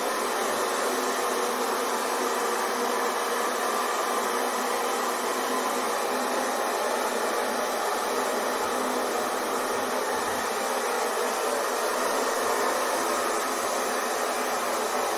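Hair dryer running steadily: an even airy rush with a faint steady hum in it, never changing in speed or level.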